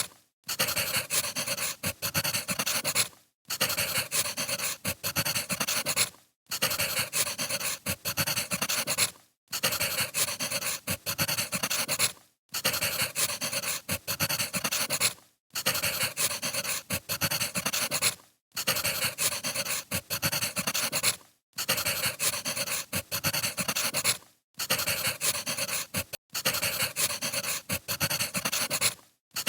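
Wood fire crackling with many small pops and snaps, played as a loop that cuts out briefly about every three seconds.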